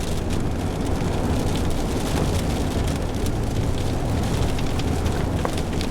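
Road noise inside a moving vehicle: a steady low rumble with scattered light ticks and patters.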